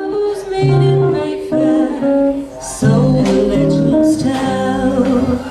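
Jazz quartet playing live, with guitar chords over a bass line.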